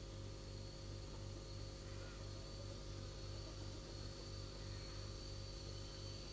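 Faint background hum: a steady low electrical hum that pulses slightly, with a thin high-pitched whine above it and light hiss.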